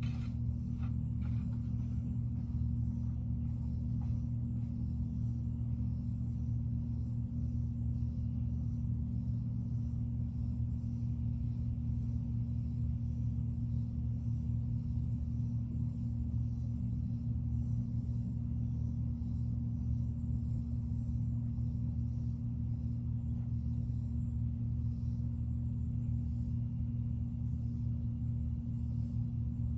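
A steady low mechanical hum with a fixed drone that does not change, and a few light clicks in the first second.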